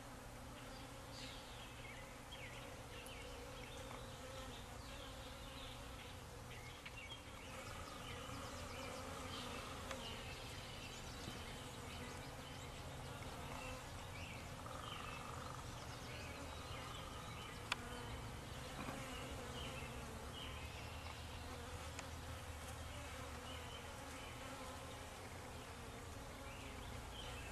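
A honey bee swarm buzzing: the steady, faint hum of many bees clustered in the open without a hive. One sharp click stands out about two-thirds of the way through.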